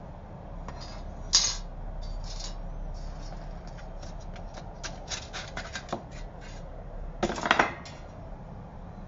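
Small metal pocket stove being handled: light metal clicks and rubs, with two louder scrapes, about a second in and again near the end.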